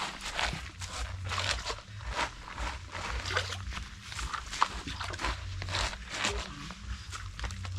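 Chickens feeding: a run of short, irregular clucks and pecks over a steady low hum.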